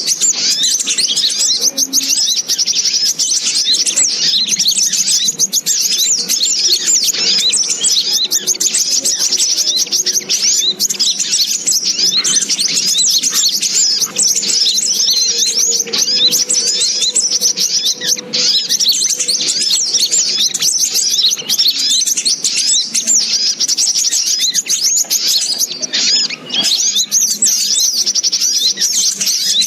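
Sogok ontong birds' high-pitched chirps and twitters, packed densely and without pause: a bird-trapping lure call.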